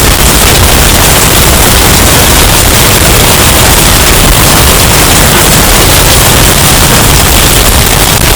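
Hurricane wind sound effect, bass-boosted and distorted almost to clipping: a steady, very loud wall of wind noise with no gusts or breaks.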